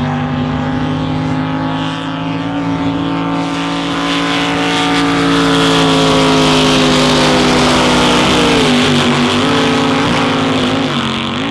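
Racing drag boat engines running hard down the course, a steady engine note under a growing rush of noise that is loudest around the middle, with the pitch wavering near the end as the boats go by.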